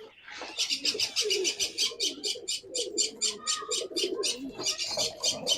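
Domestic pigeons cooing in a loft, under a fast, even run of high-pitched chirps, about seven a second.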